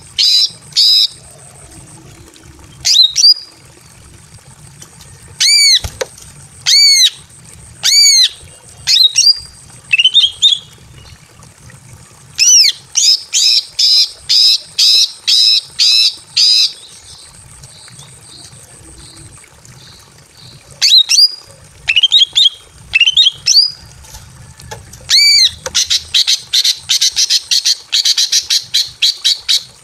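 Female greater green leafbird (cucak ijo) in breeding condition calling to draw a male. Sharp, arched notes come in fast runs of about four a second, with single loud notes spaced a second or so apart in between and a short pause in the middle.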